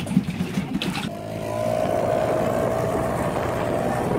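Small dinghy outboard motor opening up about a second in, then running steadily under way.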